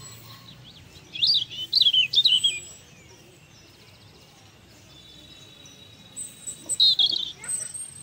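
Songbirds chirping in quick bursts of high, twittering notes: one group about a second in and another near the end, with a thin, steady high whistle between them.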